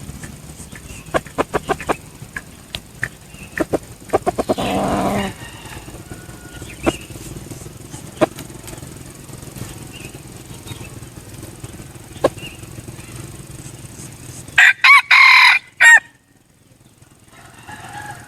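A red junglefowl rooster crowing once, loud, in several broken segments near the end. Earlier, quick flurries of rapid taps like wing beats.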